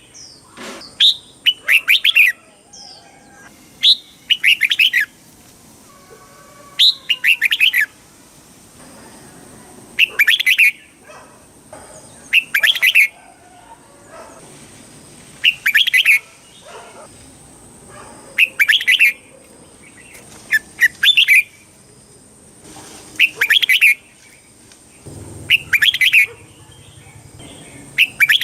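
Red-whiskered bulbul singing: short, bright, rapid whistled phrases repeated every two to three seconds.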